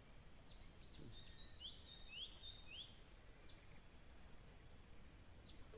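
Steady high-pitched insect drone, with a songbird's faint calls over it: a few quick downward sweeps and a run of four short rising notes about two seconds in.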